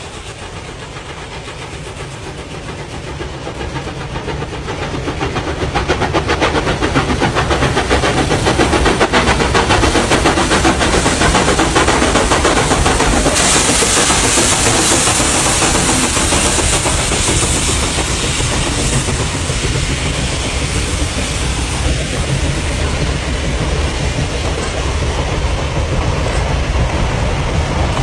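A train approaching and passing close by. Its noise builds over the first few seconds, then holds as a steady loud clatter of wheels on the rails.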